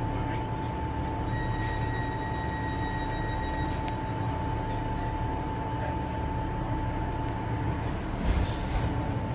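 Train running: a steady low rumble with a constant high whine, and a brief thump about eight seconds in.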